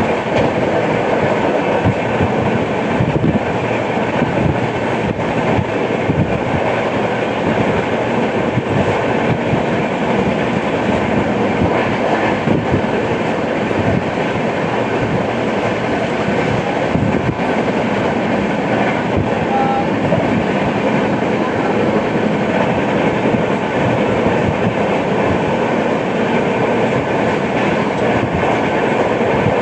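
Express passenger train running at speed, heard from on board: a steady rumble and clatter of coach wheels on the rails.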